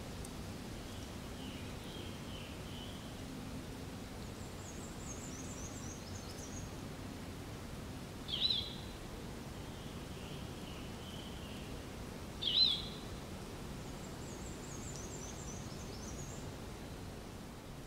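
Steady outdoor background noise with small birds calling: soft, high phrases of quick falling notes come and go, and two short, sharp chirps, the loudest sounds, come about four seconds apart in the middle.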